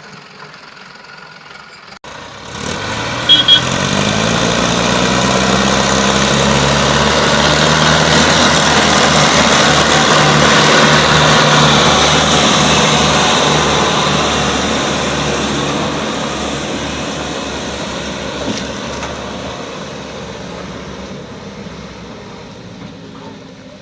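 Diesel tractor engine revving up and labouring under heavy load, its sound growing louder toward the middle and then slowly fading. Two short high beeps come about three seconds in.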